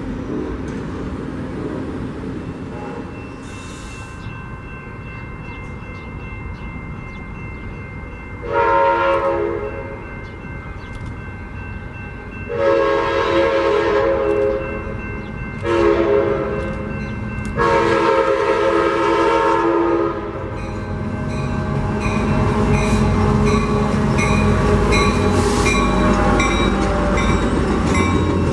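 Passenger train's multi-note air horn sounding four blasts, the second and fourth held longest, then the train running past with a rising rumble and the regular clickety-clack of wheels over rail joints.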